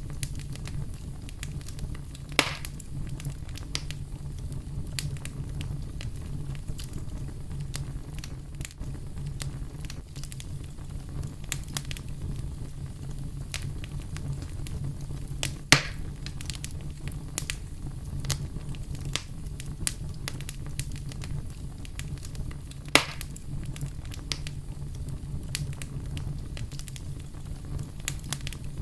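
Wood fire burning in a fireplace: a steady low rumble with constant fine crackling, and three louder sharp pops about 2 seconds, 16 seconds and 23 seconds in.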